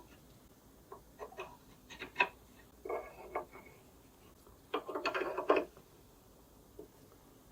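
Handling noises on wood: short knocks and rubbing scrapes in four brief clusters, the longest and loudest about five seconds in.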